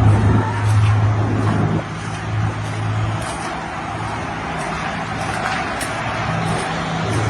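A steady low engine hum with road-traffic noise, dropping slightly in level about two seconds in.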